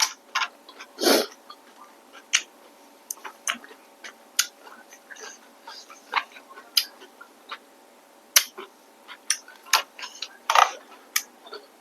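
Close-miked eating sounds: irregular sharp mouth clicks and smacks of chewing noodles and shrimp, with a couple of longer wetter smacks about a second in and near the end.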